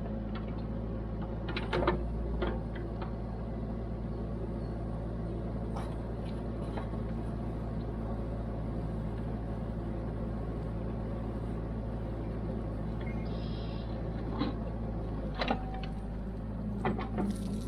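Kubota KX121-3 mini excavator's diesel engine running steadily, with a few sharp knocks about two seconds in and again near the end.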